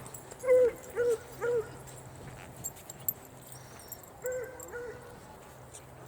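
A dog giving three short, high barks in quick succession about half a second in, then two fainter ones a few seconds later.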